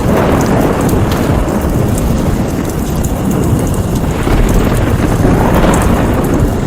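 Heavy rain falling steadily, with a deep continuous rumble like thunder.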